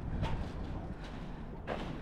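Footsteps on a walking path, two steps, over a low rumble of wind on the microphone.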